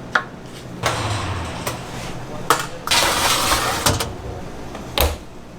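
Kitchen work sounds: several sharp clinks and knocks of objects being handled, with stretches of rustling, hiss-like noise between them.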